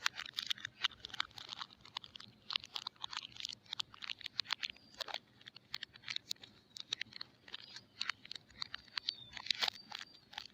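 Packaging crinkling and crackling as soap bars are unwrapped by hand, in a quick, uneven run of sharp crackles.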